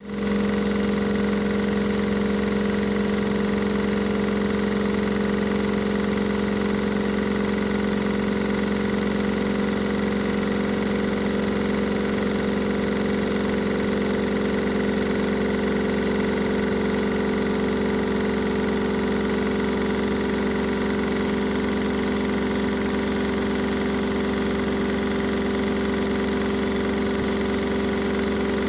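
Washing machine running at a steady speed, its motor giving a constant, even hum that starts abruptly.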